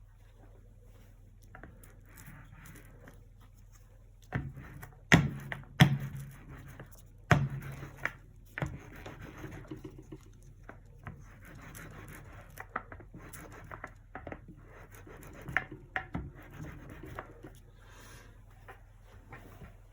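Acrylic painting work sounds: a cluster of sharp knocks and clicks from painting tools being handled and set down, the loudest about five and six seconds in, then a paintbrush scratching and rubbing on canvas with scattered small clicks.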